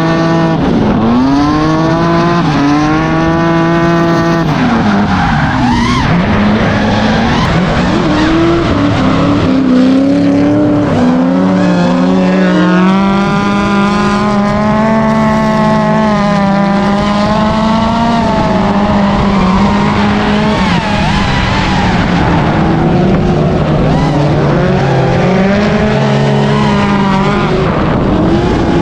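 Drift cars' engines revving hard, their pitch rising and falling over and over as they are worked on and off the throttle, with tyre squeal.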